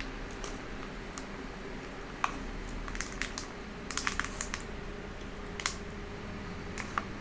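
Eating sounds of someone eating soft cake: irregular small clicks and smacks, bunched together about four seconds in.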